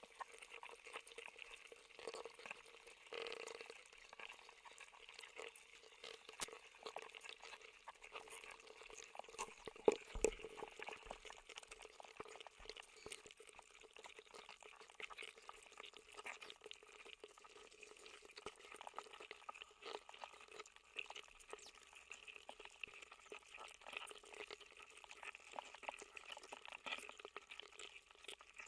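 Faint, steady crackling noise with a watery, bubbling character, dotted with small clicks and one louder click about ten seconds in.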